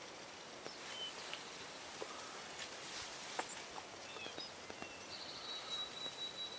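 Small songbirds calling in the woods: scattered short high chirps and whistles, then a long, even trill that starts about five seconds in.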